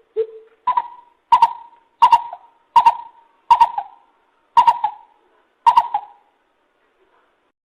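Lesser coucal calling: a series of hollow hooting notes, the first lower and the rest stepping up in pitch, about one and a half a second, stopping near the end.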